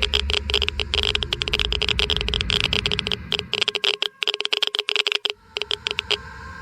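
Geiger–Müller counter clicking fast and irregularly, each click a detected ionizing particle, the clicks thinning out for a couple of seconds in the middle. A low rumble runs beneath the clicks and falls away in the same stretch, and steady tones come in near the end.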